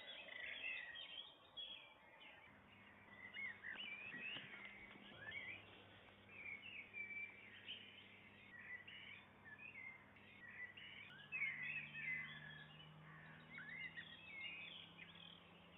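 Several small birds chirping and singing at once, many short rising and falling calls overlapping, with a faint steady low hum underneath.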